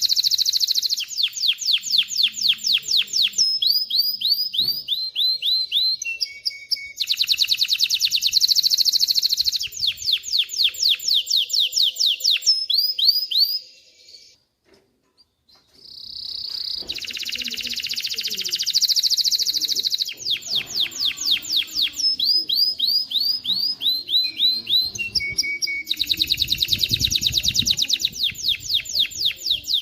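Male domestic canary singing: long, fast trills of rapidly repeated high notes, changing from one trill type to the next, with a brief pause about halfway through.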